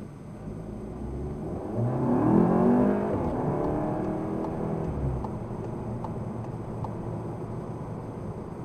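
Skoda Superb Sportline 206TSI's turbocharged 2.0-litre four-cylinder, with a turbo muffler delete and aftermarket diverter valve, heard from inside the cabin with road noise. Under acceleration about two seconds in, its note rises and is loudest. It then eases off as the pitch falls and settles to a steady cruise.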